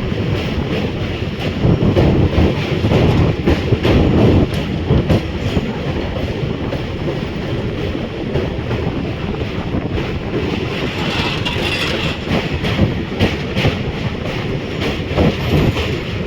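Train running along the track: a steady rumble with repeated clicks of wheels passing over rail joints, louder for a few seconds early in the stretch.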